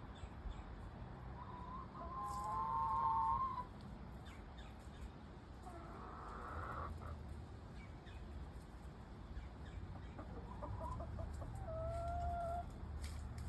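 Backyard chickens calling: a long drawn-out call about two seconds in and another about ten seconds in, with softer clucking between.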